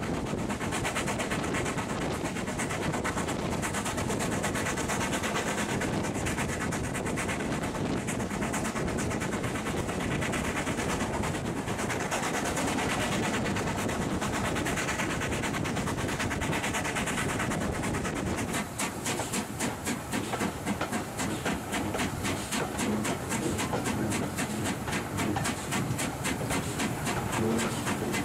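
Steam-hauled railway carriage running at speed, heard from an open window: wheels clattering on the track and wind rushing past. About two-thirds of the way through, the sound turns into a rapid, even pulsing.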